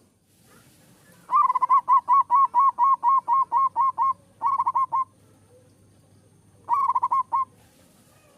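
Zebra dove (perkutut) cooing: a run of rapid, even notes about four a second for roughly three seconds, a short burst right after, and another short burst near the end.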